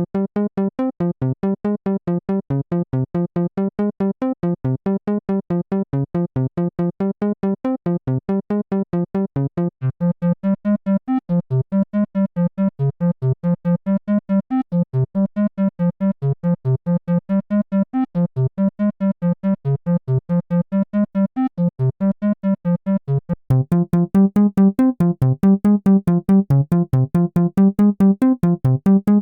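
u-he Triple Cheese software synthesizer playing a fast run of short, repeated keyboard-like notes. About 24 seconds in, the music gets louder and sharp clicks come in with the notes.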